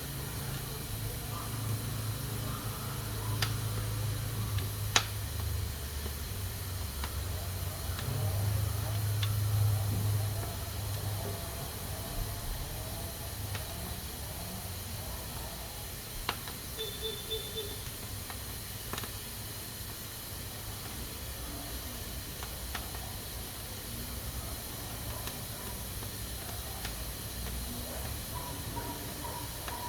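Pressure cooker hissing steadily as steam escapes through its valve, with a few sharp clicks and a low rumble during the first ten seconds or so.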